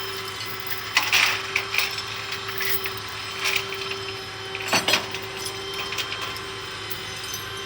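Tow truck's hydraulics running with a steady whine and low hum while a car is loaded, with several sharp metal clanks and creaks, the loudest about a second in and just before five seconds.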